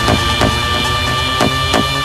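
Electronic dance music from a DJ mix: a steady kick-drum beat, about two strikes a second, under held synth chords.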